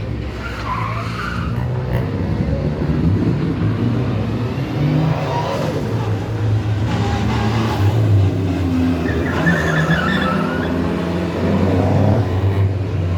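Rally car engine revving through a sideways handbrake slide, its pitch rising and falling, with tyres skidding. A tyre squeal rises about nine seconds in.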